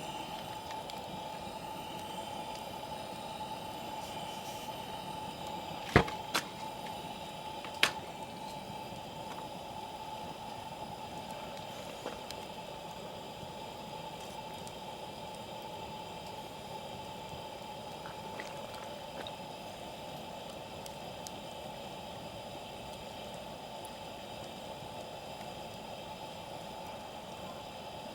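Wood campfire burning with a steady hiss and a few sharp crackling pops, the loudest about six seconds in and another about eight seconds in.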